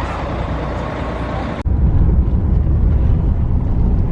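Steady rumble and road noise of a moving vehicle. About one and a half seconds in, an abrupt cut leaves a heavier, louder low rumble.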